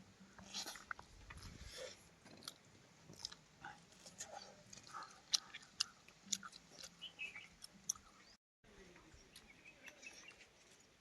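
Chewing and mouth sounds of people eating chicken curry with rice, with many small scattered clicks and crackles.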